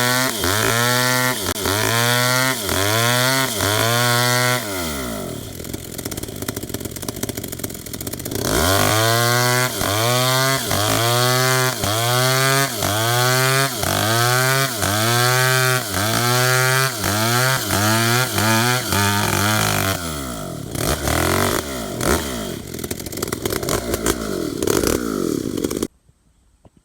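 Two-stroke chainsaw cutting tembesu wood, its engine pitch rising and falling about one and a half times a second. It eases off twice, and the engine cuts out suddenly near the end.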